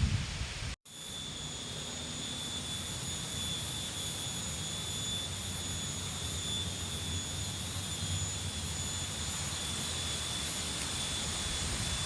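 Strong wind blowing steadily through banana trees: a constant roar of moving air and leaves. There is a brief dropout about a second in, and a faint steady high tone sits above the noise.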